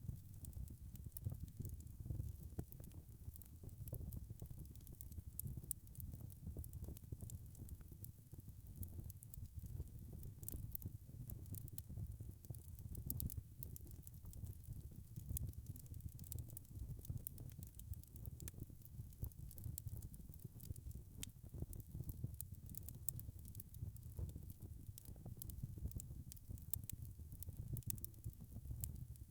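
Wood fire burning in a fireplace: a low steady rumble of flame with frequent small crackles and pops of burning logs.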